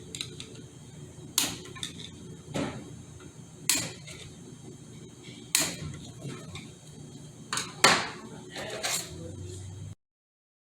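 Sharp metal knocks and clinks from hand tools at work on a Ford AOD automatic transmission, about seven at uneven intervals, over a low hum; the sound cuts out near the end.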